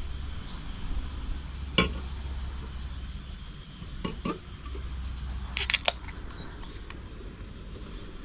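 Wind buffeting the microphone as a steady low rumble, with a few sharp knocks and clinks: one about two seconds in, two around four seconds and a quick cluster of bright clicks a little past the middle.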